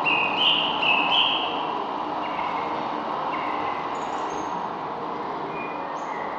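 Small birds chirping: a run of short, loud repeated notes in the first second and a half, then scattered softer chirps over a steady background rush.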